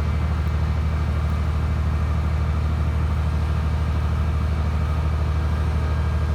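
Heavy engine of a hydraulic static pile driving machine running steadily, a low, even drone.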